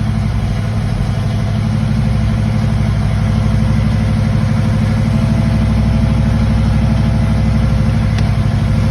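Modified 400 V8 of a 1967 Pontiac Firebird idling steadily, warming up just after a cold start.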